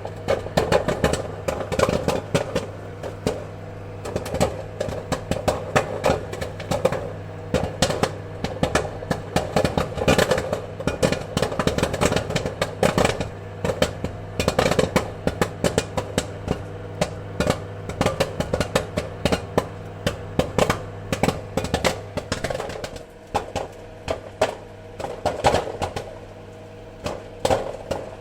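Popcorn kernels popping: many sharp, irregular pops over a steady low hum, the pops a little sparser in the last few seconds.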